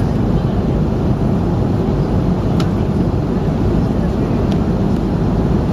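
Airplane cabin noise: a steady, loud, low rushing drone from the engines and air, with two faint clicks in the middle.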